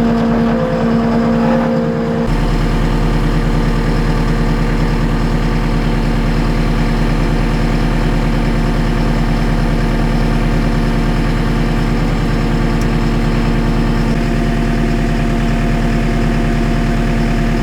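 JCB skid steer's diesel engine running steadily. Its sound shifts about two seconds in and then holds steady.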